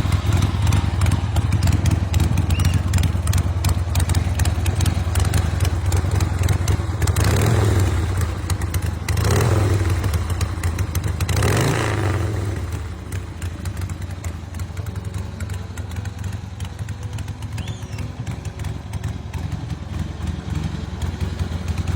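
Harley-Davidson Ironhead Sportster air-cooled V-twin running at idle, blipped up in three short revs about seven, nine and eleven seconds in, then settling back to a quieter idle.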